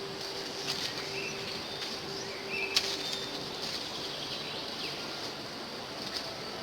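Outdoor rural ambience: a steady high insect drone with a few short bird chirps, and a single sharp click a little under three seconds in.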